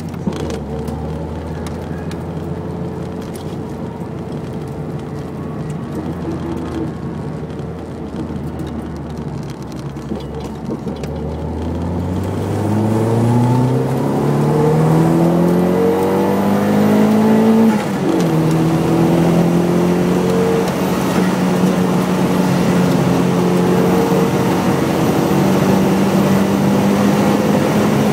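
Nissan 180SX's SR20DET turbocharged four-cylinder heard from inside the car: a steady low engine note at first, then about twelve seconds in it revs up under hard acceleration. A few seconds later the pitch drops suddenly with an upshift, and the engine pulls on steadily in the next gear.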